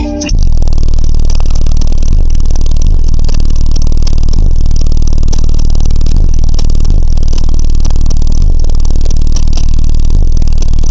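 Car audio subwoofers playing a sustained deep bass tone at extreme volume, hard enough to overload the microphone. It starts suddenly and holds steady.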